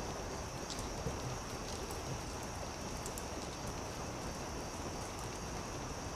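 Campfire burning with irregular crackles and pops over a steady hiss of flames, plus a steady high-pitched hiss.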